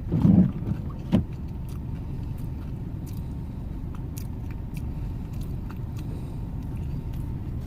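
Steady low rumble of an idling truck heard from inside the cab. A short loud vocal sound right at the start, a sharp click about a second in, and scattered light clicks and crinkles over it.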